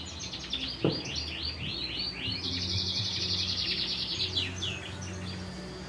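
Domestic canary singing: quick runs of high sweeping notes and a long, fast rolling trill in the middle. A sharp knock sounds just before a second in, over a steady low hum.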